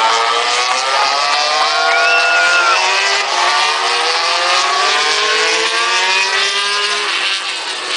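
Several racing motorcycles passing at speed. Their high engine notes overlap and slide down in pitch as they go by.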